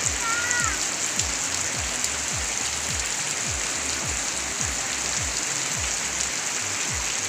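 Heavy rain pouring down steadily on the roofs and forest, with water streaming off the roof edges. Background music with a steady beat runs underneath.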